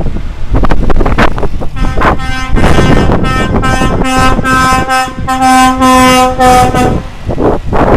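Truck air horn sounding in several long blasts from about two seconds in until near the end, over low rumble and wind noise.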